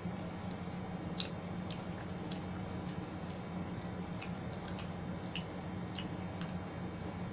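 A person chewing food: irregular short mouth clicks, about a dozen, over a steady low hum.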